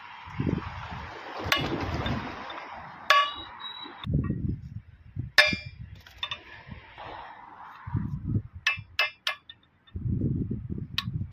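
Metal tools and parts clanking and knocking during a repair, some strikes ringing briefly: single clanks spaced a second or two apart, then a quick run of three. Duller low rumbling and shuffling noises come between the strikes.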